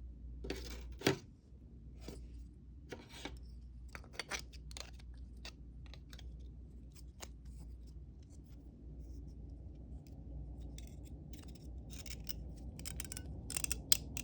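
Small handling noises from darning work: a scattered run of light clicks, snips and scrapes, with one sharper knock about a second in.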